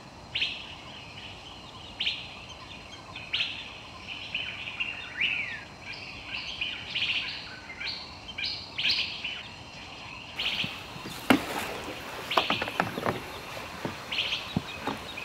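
Birds calling in tropical forest: one short chirp repeated about every second and a half, with other birds' chirps between. From about eleven seconds in, a few sharp clicks and knocks join the calls.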